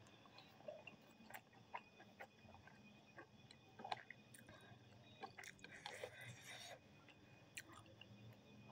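Faint chewing and mouth sounds of someone eating ramen noodles and pork, with scattered small clicks.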